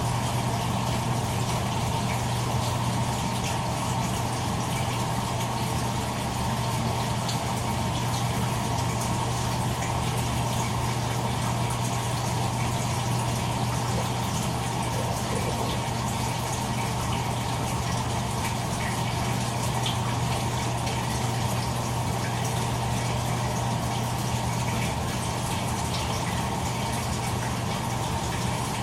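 Toshiba AW-42SEE4 fully automatic top-loading washing machine running steadily mid-cycle: a constant low hum with the sound of water rushing.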